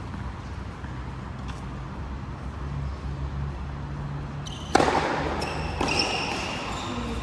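A low steady hum, then a single sharp, loud ball strike about two-thirds of the way in, followed by a few fainter knocks and short high squeaks, as in a racket-sport rally on an indoor court.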